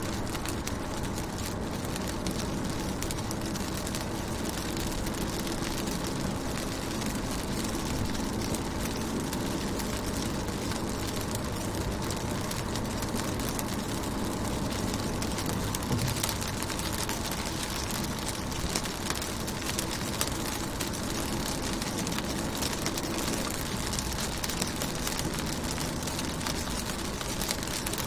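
Steady rain falling on a car's windows and body, a dense patter of fine drop ticks over a low, even hum.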